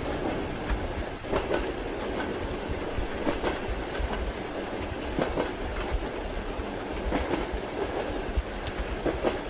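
Passenger train carriage heard from inside the compartment: a steady rumble with the wheels clicking and knocking irregularly over the rail joints.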